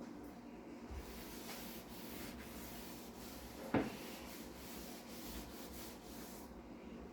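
Hand scrubbing a hard surface during cleaning: a streaky, rasping rubbing hiss that stops near the end, with one sharp knock a little past halfway.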